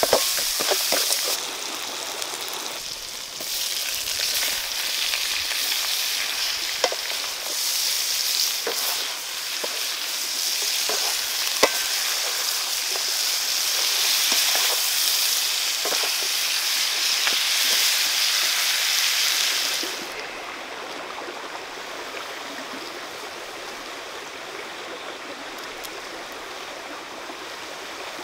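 Stir-fry sizzling in a wok over a wood fire: chopped banana stem and red chilies frying in hot oil, stirred and scraped with a wooden spatula, with a few sharp knocks of the spatula. About twenty seconds in the sizzle drops away, leaving the steady rush of a shallow stream.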